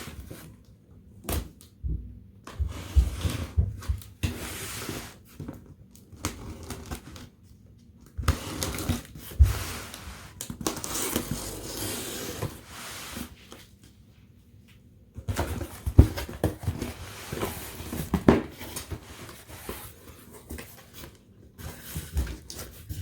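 A cardboard shipping box being opened and unpacked by hand: stretches of tearing and rustling of cardboard and packaging, with scattered knocks and thumps as items are handled, and short quieter gaps between.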